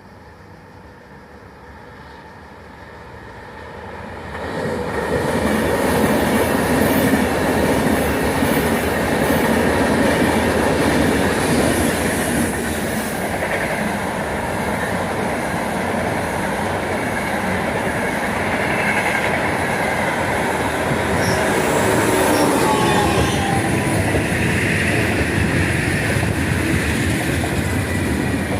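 A train running along the track through a station: a rumble that swells about four seconds in and stays loud, with wheels clattering over the rails and a faint thin squeal in the later part.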